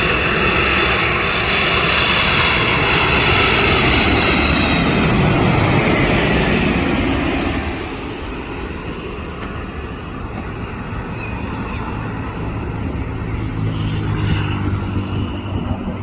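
Airbus A330 airliner's jet engines passing close on landing: a loud roar with high whining tones that slowly fall in pitch, fading about seven to eight seconds in to a lower rumble.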